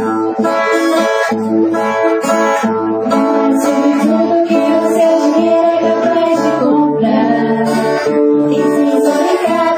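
Music: a song played on acoustic guitar.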